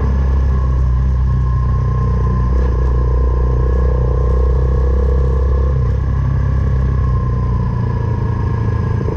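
Suzuki Van Van 125's single-cylinder four-stroke engine running at a steady speed through an aftermarket full exhaust.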